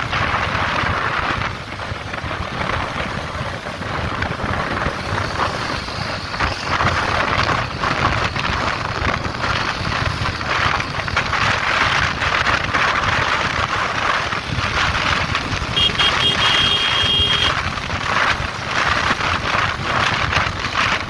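Wind rushing over the microphone during a motorcycle ride, over engine and road noise. A short high beep sounds about three quarters of the way through.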